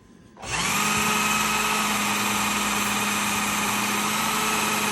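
Work Sharp Ken Onion Elite belt sharpener with its grinding attachment switched on about half a second in, spinning up quickly and then running steadily with a constant whine, set up for stropping the blade.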